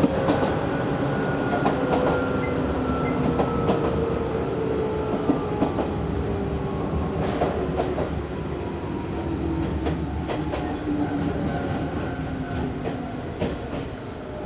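Izu Hakone Railway Series 3000 electric train heard from inside the car, coasting and slowing on the approach to a station. The whine of the traction motors and gears falls slowly in pitch, over a rumble of wheels with scattered clicks at the rail joints, and the whole grows a little quieter toward the end.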